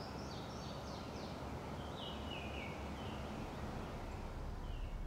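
Quiet steady background ambience with a bird chirping: a run of short falling notes in the first three seconds, then two more near the end.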